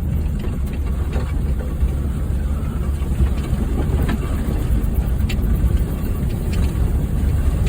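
Honda Fit driving over a rough dirt trail: a steady low rumble of engine and tyres, with a few short knocks and rattles from bumps.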